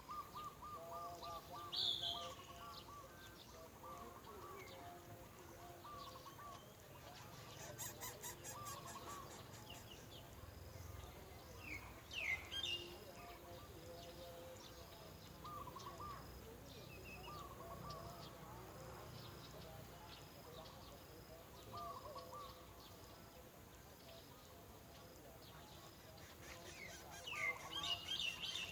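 Several small birds calling: a steady run of short, arched, repeated notes, broken by a few sharper high chirps that are the loudest sounds, about two seconds in, around the middle, and near the end.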